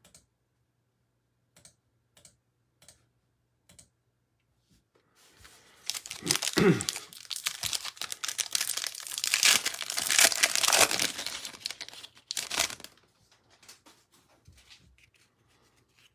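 A 2021 Panini Chronicles Baseball hobby pack being torn open, its wrapper crinkling and crackling for about seven seconds after a few faint clicks.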